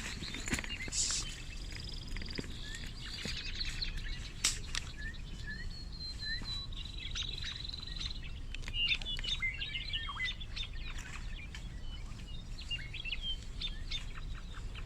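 Wild birds chirping and calling: many short, quick notes, with a held high whistle about 7 seconds in and a busier burst of chirps from about 9 seconds on, over a steady low rumble.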